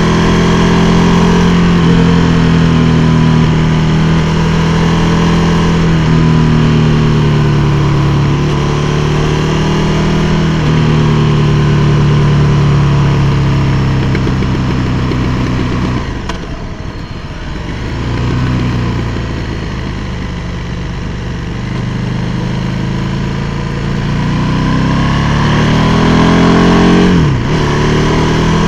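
KTM 1290 Super Duke R's 1301 cc V-twin engine under way, its note rising and falling with the throttle. It drops to a quieter, lower note about two-thirds of the way through, then revs up again and cuts off sharply just before the end.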